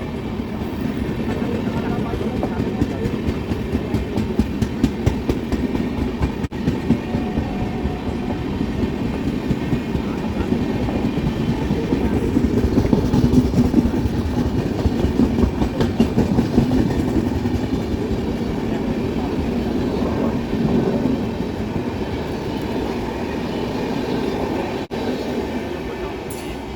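Coaches of the Madhya Pradesh Sampark Kranti Express running along the track, with a steady rumble and a rapid, continuous clatter of wheels over the rail joints.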